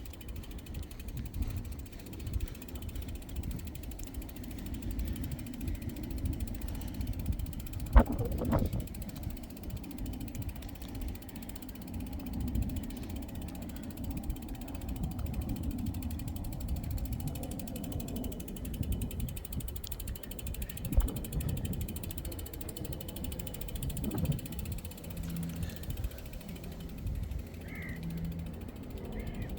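Bicycle freewheel ticking steadily as the bike is wheeled along, with a sharp knock about eight seconds in and smaller knocks later.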